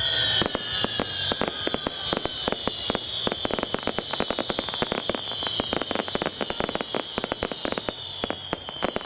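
Aerial fireworks display: dense, rapid crackling and popping from many small bursts, over a high whistling tone that falls slowly.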